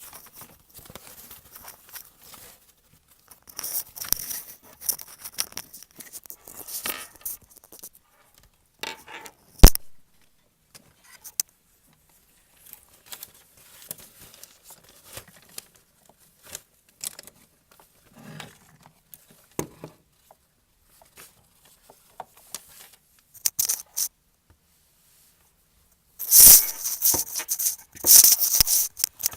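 A ferret moving about, with scattered rustling, scratching and light clicks, one sharp click about ten seconds in, and a loud spell of rattling shakes near the end.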